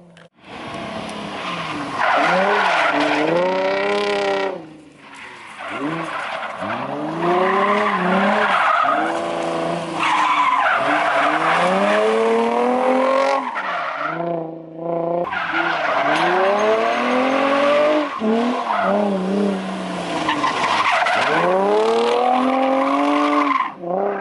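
Drift car sliding through corners: the engine revs up and down over and over while the tyres squeal and skid, with two short lulls.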